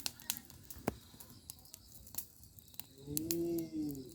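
Firewood crackling, with scattered sharp snaps and pops. About three seconds in, a short pitched tone rises and falls for about a second.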